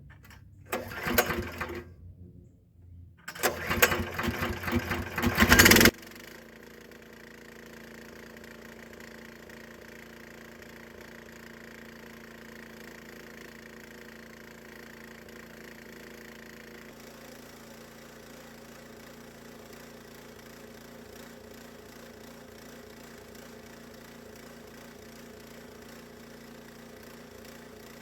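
Small gas engine of a bandsaw sawmill idling steadily. Before it settles, loud, rough noise comes in bursts for the first few seconds and cuts off abruptly about six seconds in.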